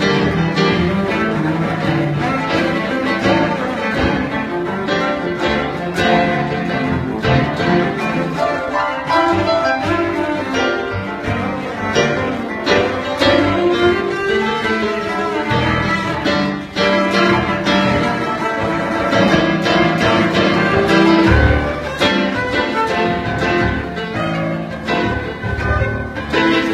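Cello bowed in a continuous melodic line, jamming live with a busker's accompaniment.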